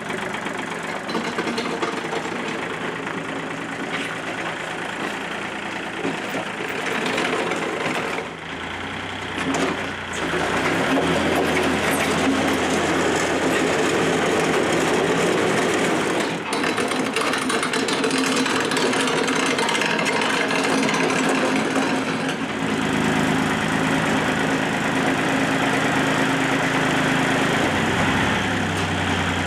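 A vehicle engine running steadily. It gets louder about ten seconds in and shifts in pitch again about 22 seconds in, as if the load or speed changes.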